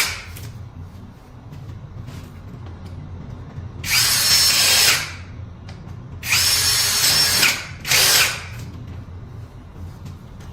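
Cordless drill-driver with a hex bit running in short whining bursts, tightening the stopper bolts on a scooter's steering column: one burst about four seconds in, a longer one a little past six seconds, then a brief final one.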